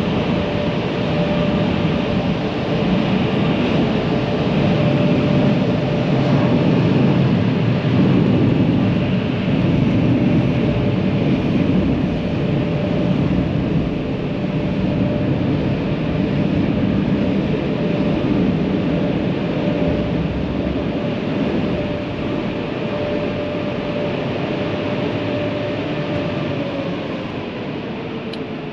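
Car wash machinery running steadily with a loud, constant rush and a steady whine that sags slightly in pitch near the end.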